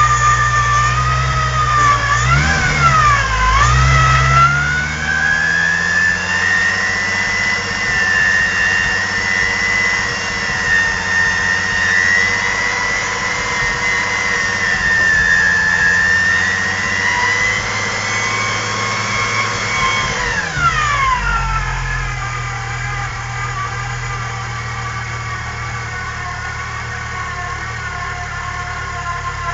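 Supercharged VW VR6 engine revved up and down a couple of times, then held at raised revs for about fifteen seconds before dropping back to a steady idle. It is the engine's first run after the build.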